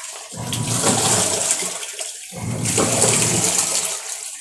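Electrolux automatic washing machine in its wash cycle. The motor churns the water in strokes of about two seconds, with a low hum and sloshing, and stops briefly between strokes as it changes direction. The wash function is working again after the repair.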